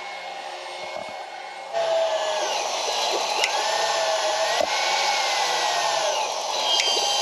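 Small water pump of a portable propane tankless water heater humming steadily, then about two seconds in a sudden, louder steady rushing noise sets in as the heater starts up.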